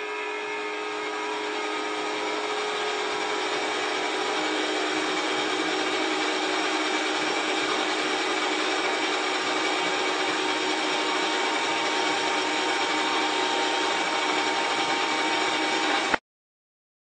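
Table saw running steadily, a constant whirring hum with a few steady tones in it; the sound cuts off abruptly near the end.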